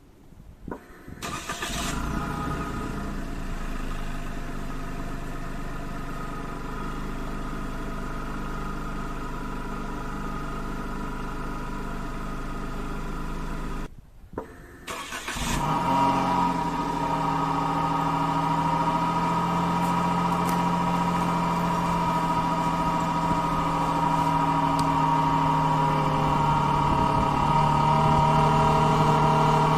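Suzuki Hustler's three-cylinder kei-car engine started and idling steadily, heard at the exhaust fitted with a muffler cutter. About 14 seconds in it cuts out briefly, then starts again and idles louder.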